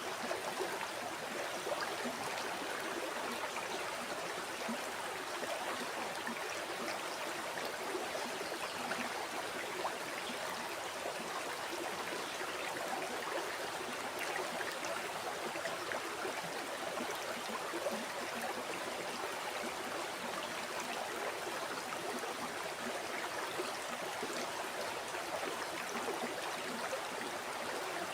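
River water flowing over rocks: a steady rushing and babbling with small splashing flickers throughout.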